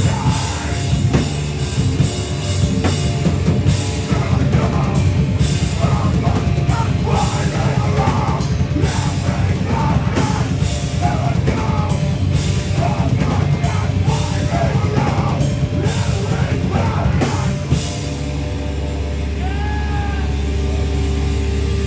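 Live heavy band with a drum kit playing loud and fast, then stopping abruptly about eighteen seconds in. A steady low hum is left, with a brief gliding whistle just after the stop.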